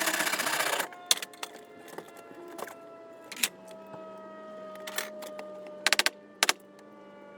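A power tool runs in a short, fast-pulsing burst that stops just under a second in. Scattered sharp clicks and knocks of tools on wood follow, with a quick cluster about six seconds in.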